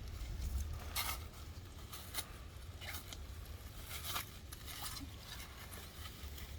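Pea gravel crunching and scraping in several short, separate bursts, as stones are scooped or stepped on, over a steady low rumble.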